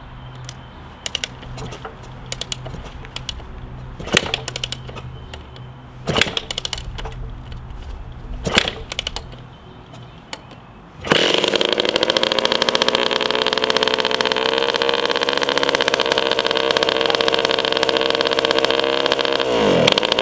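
1981 Suzuki RM125 two-stroke dirt bike engine being kicked over several times, then catching about eleven seconds in and running loud and steady, its pitch dipping and recovering near the end. This is the first start of the revived garage-find engine. It sounds terrible through an exhaust pipe with a big hole in it.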